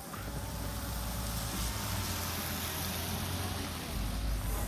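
A truck driving past with a steady low engine rumble and road noise.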